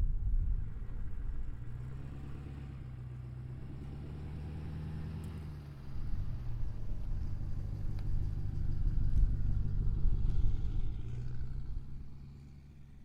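Ford Power Stroke 6.7-litre V8 turbo-diesel engine running. Its pitch holds steady, drops about halfway through, then climbs again before fading.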